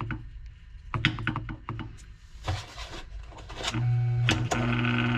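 Electric box fan motor running with its blade off, humming in a low, steady tone. A few clicks and knocks come first, and the hum settles in loudly about two thirds of the way through. The motor is slow to come up to speed, and fresh oil is being worked into its bearings.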